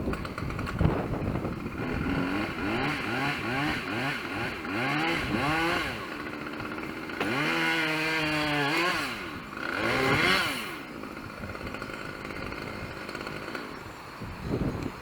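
Two-stroke chainsaw revved in a series of short throttle blips, then held at high revs for about two seconds, revved once more, and dropping back to a quieter idle for the last few seconds.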